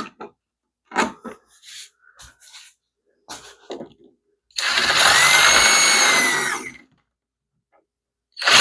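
A few light clicks and knocks of handling, then a power drill running for about two seconds as it drives a screw, its pitch rising and falling slightly; it starts up again near the end.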